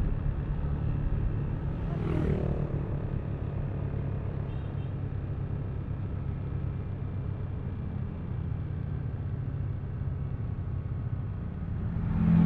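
Yamaha Aerox V3 scooter's 155 cc single-cylinder engine running steadily on the move, with road and traffic noise. A brief louder swell of passing traffic comes about two seconds in and another near the end.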